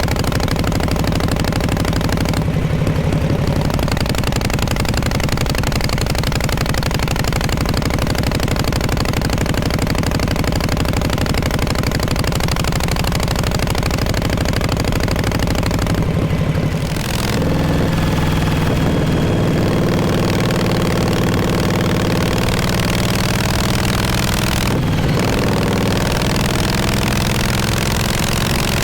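1948 Harley-Davidson Panhead V-twin running with its exhaust note steady. A little over halfway through, the sound briefly dips and then settles into a slightly different note.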